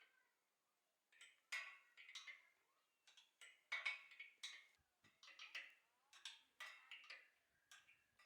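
Faint, irregular clicks and light taps, a dozen or so, some with a short ring after them.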